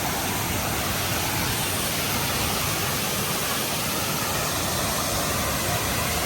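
Waterfall rushing steadily, an unbroken even noise of falling water.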